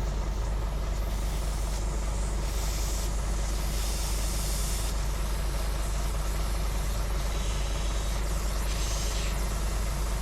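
Truck diesel engine idling steadily, with several short bursts of compressed-air hiss as air is fed into an under-inflated tyre.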